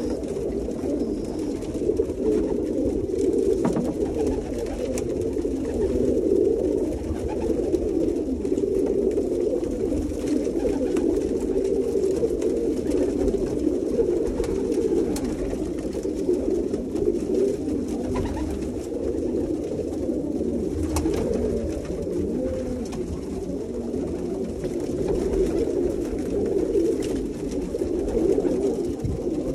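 A flock of domestic pigeons cooing together, many low coos overlapping into a steady, unbroken chorus, with a few faint clicks scattered through it.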